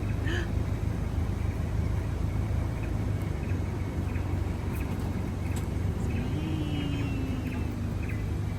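Car engine running steadily with a low hum, and a faint drawn-out falling call about six seconds in.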